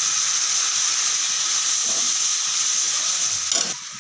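Loud, steady sizzling of food frying in hot oil in a kadhai, with steam rising off the pan; it cuts off abruptly near the end.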